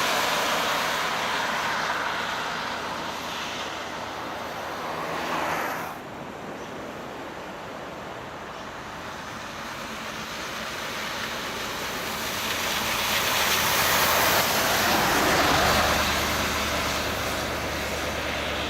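Road vehicles going by: engine and tyre noise swells and fades, breaks off sharply about six seconds in, then builds again to a second peak near the end.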